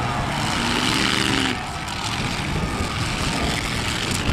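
Demolition derby cars' engines running in the dirt arena, one engine revving up about half a second in and dropping off after about a second.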